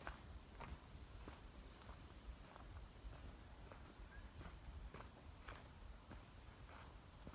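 A walker's footsteps, about one and a half steps a second, over a steady high-pitched insect chorus.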